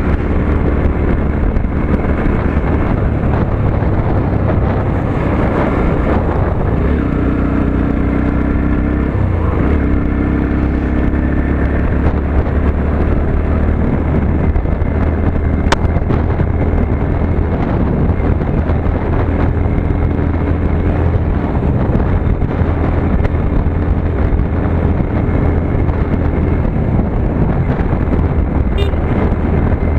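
Motorcycle engine running steadily while riding, its pitch shifting for a few seconds partway through as the revs change, with a single sharp click about halfway.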